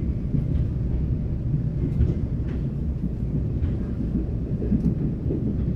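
Steady low rumble of a passenger train running along the line, heard from inside the carriage, with a few faint clicks over it.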